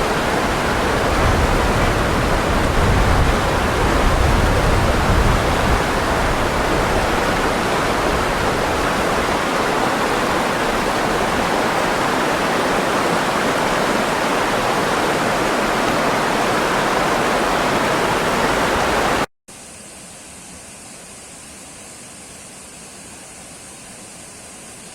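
Steady rush of falling water. About three-quarters of the way through it cuts off abruptly to a much quieter steady hiss.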